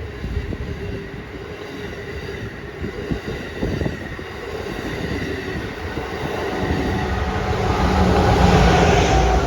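Amtrak Acela high-speed trainset passing at speed: a continuous rumble and rush of wheels on rails, growing louder toward the end.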